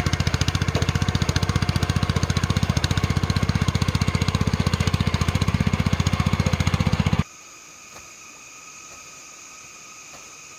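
A small farm engine running steadily with a fast, even beat, then switched off abruptly about seven seconds in, leaving a much quieter background.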